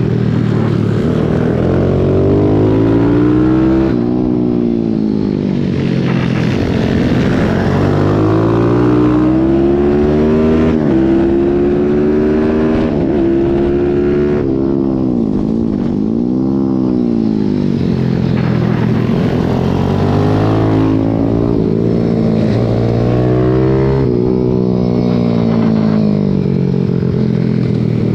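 Racing pit bike engine heard onboard, held at high revs. Its pitch repeatedly climbs and then drops back sharply as it runs up through the gears, and about midway it falls off and builds again.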